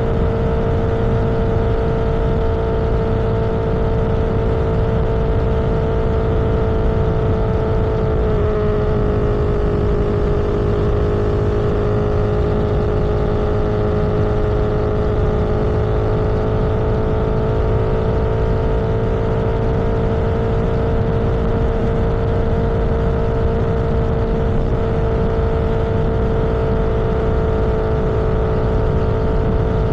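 Motor vehicle running at a steady cruising speed, a steady engine tone over road and wind noise; the pitch dips slightly about eight seconds in and then holds level.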